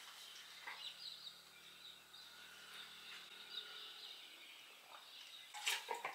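Faint birds chirping now and then, over a low steady hum that stops a little past halfway. Near the end comes a brief, louder clatter of handling.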